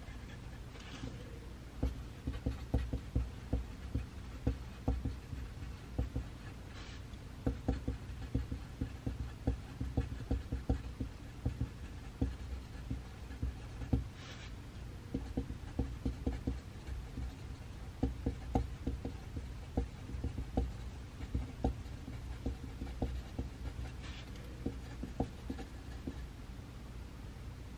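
Pencil writing on paper: short scratching strokes in irregular runs, over a steady low room hum.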